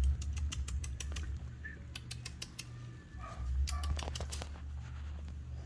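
Himalayan kittens eating their first solid food, with a quick irregular run of wet clicking lapping and chewing sounds that stops about four seconds in.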